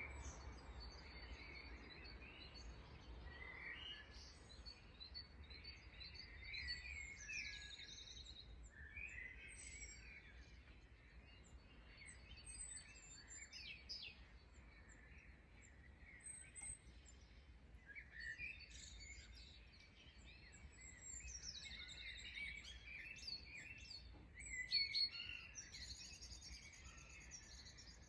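Several small birds chirping and singing in overlapping short calls and whistles, an early-morning chorus, faint throughout, with a busier, louder flurry of chirps near the end over a faint low rumble.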